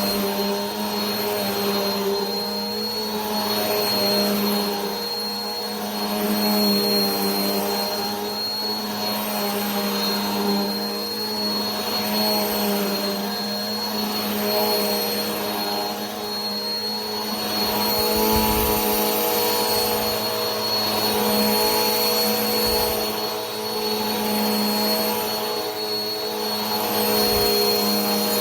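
Vacuum cleaner running continuously: a steady motor hum with a thin high whine over the rush of air, the airflow swelling and fading about every two seconds. A few soft low bumps come in the second half.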